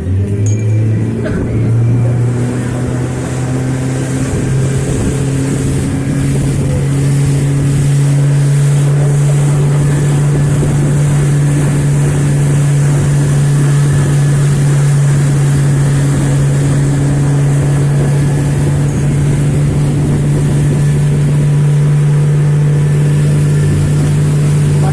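Small motorboat's engine running under way, a steady hum that climbs in pitch in the first couple of seconds and then holds even.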